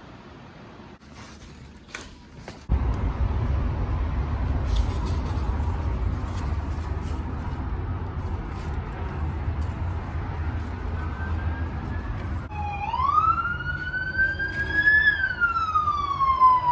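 A few clicks and knocks, then a steady low rumble. About twelve seconds in, an emergency-vehicle siren starts wailing, rising slowly in pitch and then falling.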